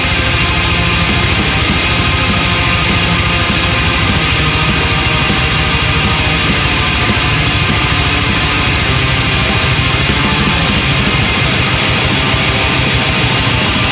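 Heavy metal music: distorted electric guitars and drums, loud and dense, with the deepest bass thinning out about eleven seconds in.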